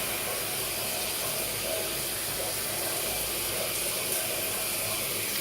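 Water running with a steady, even hiss.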